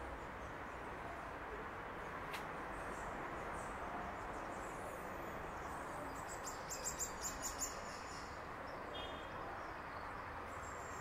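Steady outdoor background hiss, with a bird calling a quick run of about seven short, high chirps a little past the middle.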